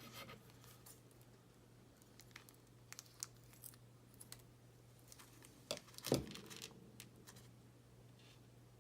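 Small plastic parts bags of model screws being handled: faint rustling and light clicks, with a louder crinkle about six seconds in.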